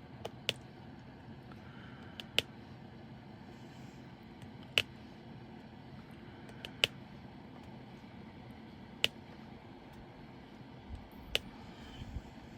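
Sharp single clicks about every two seconds, typical of a diamond-painting drill pen setting resin drills onto the sticky canvas, over a steady low hum.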